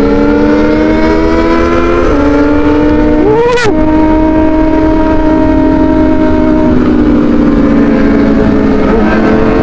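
High-revving inline-four sport-bike engines under way, the Kawasaki ZX25R with an Arrow Pro Race exhaust among them, pitch climbing slowly through the gears with a drop at a shift about two seconds in. A quick rev blip up and back down comes about three and a half seconds in, over a steady rush of wind.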